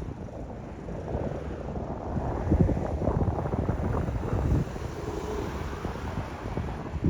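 Wind buffeting the microphone in uneven gusts, with a low rumble underneath.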